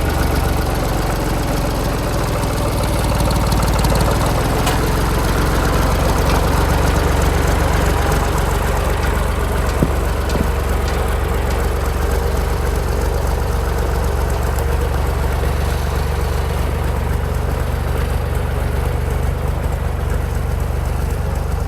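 Ford 3930 tractor's three-cylinder diesel engine running steadily as the tractor is driven in gear, with a short sharp knock about halfway through.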